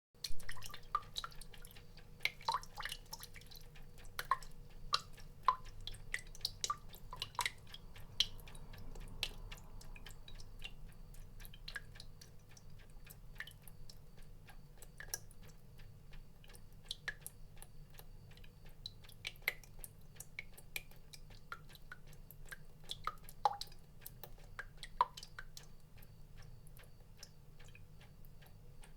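Water drops falling and plinking irregularly, many small drips with short ringing tones, busier in the first several seconds and sparser after.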